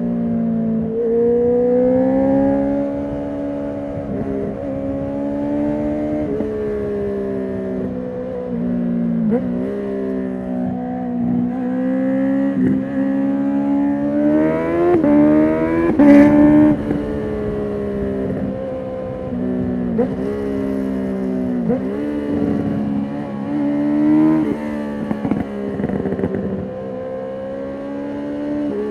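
2019 Honda CB650R inline-four engine through a full Akrapovic titanium exhaust with the dB killer removed, riding and revving, its pitch climbing and dropping back several times as it changes gear. A sharp crack about halfway through is the loudest moment.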